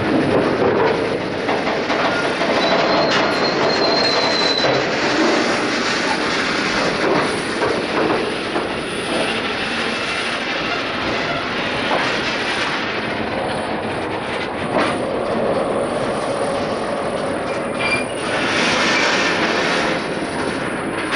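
Freight train wagons rolling on the rails: a loud, steady rumble and clatter of steel wheels, with scattered clicks over the rail joints and a thin, high wheel squeal about three seconds in.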